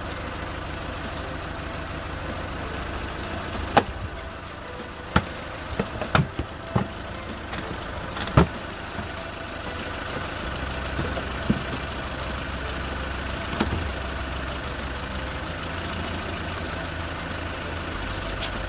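Volkswagen 1.4 four-cylinder petrol engine idling with one cylinder dead, running on only three cylinders. A few sharp plastic knocks, between about four and nine seconds in, come as the engine cover is pulled off.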